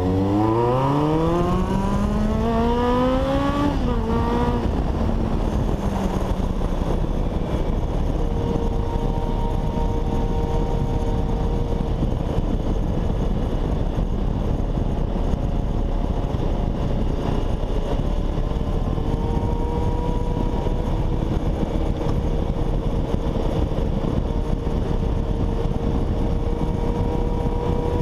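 Honda CBX 750 inline-four motorcycle engine revving hard under acceleration, its note climbing steeply for about four seconds, then dropping as the throttle eases. It settles into a steady cruise, rising slightly near the end.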